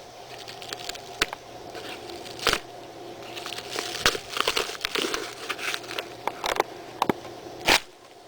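A package being torn open by hand: crinkling and tearing of the wrapping, with scattered sharp snaps and clicks, the loudest near the end.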